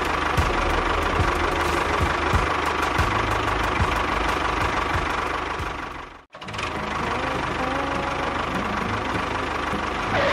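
A small motor runs steadily with a rough, mechanical rattle. It cuts out abruptly about six seconds in and starts again straight away.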